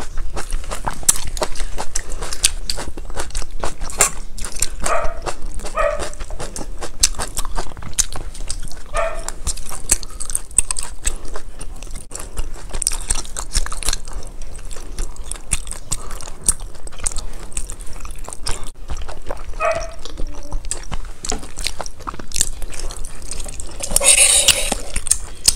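Close-miked eating sounds of someone chewing crunchy baby corn and sauced enoki mushrooms: many small wet clicks and crunches, a few short pitched sounds, and a louder noisy burst near the end.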